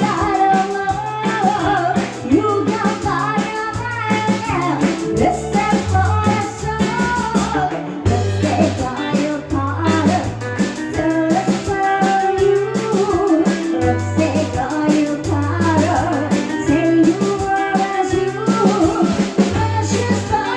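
A band playing a song with a lead singer: vocals over drums and guitar, with a bass line stepping between held low notes.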